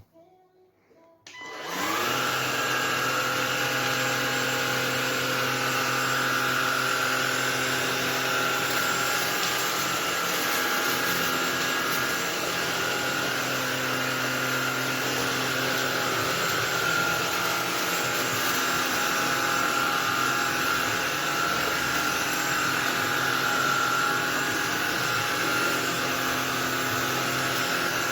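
MONSGA cordless stick vacuum cleaner's brushless motor switching on about a second and a half in, then running steadily: a high whine over a rush of air.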